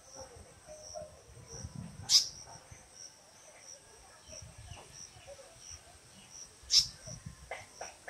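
Steady insect chirping, high and pulsed at about two to three chirps a second, with two short, loud, sharp bird calls about two and seven seconds in and a few softer call notes near the end.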